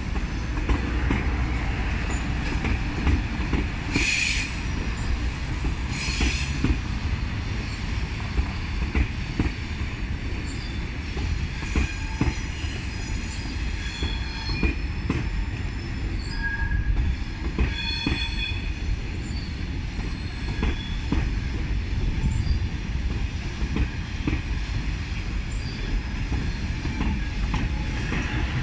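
A pair of TGV Duplex high-speed trainsets running in multiple through a junction, with a steady rumble of wheels on rail and scattered clicks over the points. Brief high-pitched wheel squeals come about four and six seconds in, and again several times in the middle.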